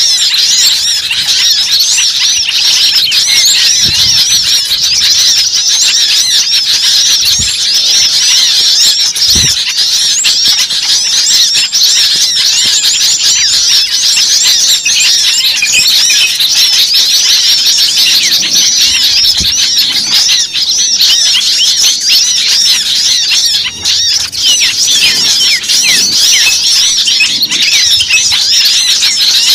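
A dense, noisy chorus of many small birds chirping and squealing over one another without a break, high-pitched and loud: a bird-trapping lure recording.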